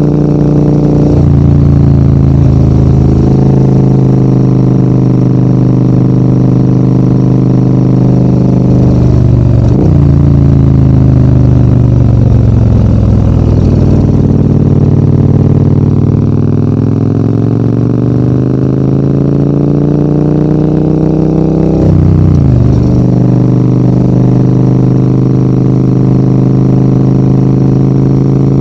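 Large adventure motorcycle's engine pulling uphill from the rider's position. The note drops suddenly about ten seconds in, sinks further, then climbs steadily for several seconds before another abrupt change near the end, like gear changes around a bend.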